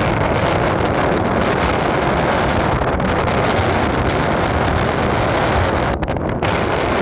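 Loud, steady wind rush buffeting the microphone, a roaring noise with no clear engine note, as from a camera on the move. It dips briefly about six seconds in.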